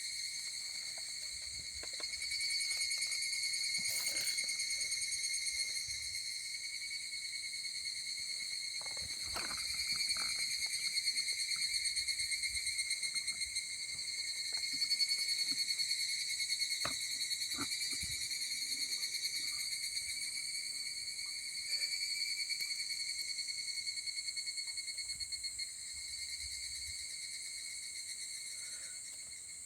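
Crickets trilling steadily in one high, continuous song, with a few faint clicks scattered through.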